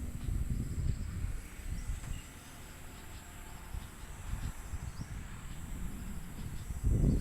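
Insects chirring outdoors as a steady high drone, under an uneven low rumble. A brief louder low sound comes just before the end.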